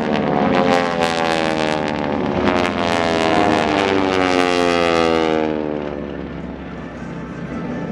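A formation of North American T-6 Texans passing by, their nine-cylinder radial engines and propellers making a loud buzzing drone. The pitch slides steadily down as they go past, and the sound fades away about five and a half seconds in.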